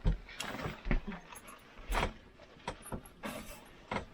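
A few sharp knocks and clicks about a second apart, with rustling between them.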